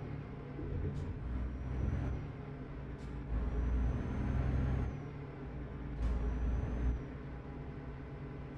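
Truck's diesel engine heard from inside the cab, running steadily with three louder pulls, about a second in, three seconds in and six seconds in. Each pull begins with a sharp click and carries a faint high whistle that rises slightly.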